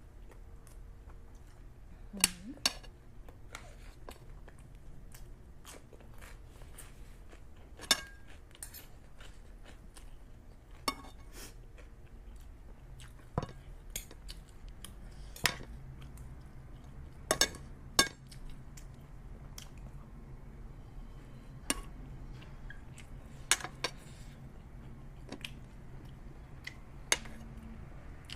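Spoon and fork clinking against a plate in sharp, irregular clicks a second or two apart, with chewing between them.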